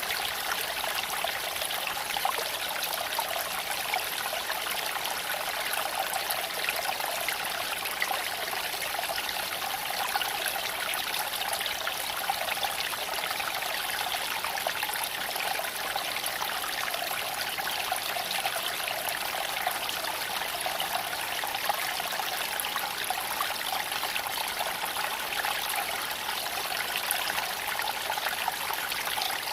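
Creek water flowing over stones, a steady, even babbling and trickling with no change.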